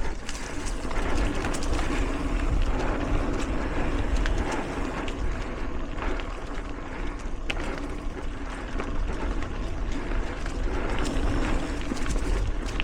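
Mountain bike rolling along a dirt singletrack, with a steady rush of tyre and wind noise and a low rumble from wind buffeting the microphone. Scattered short clicks and rattles from the bike come through.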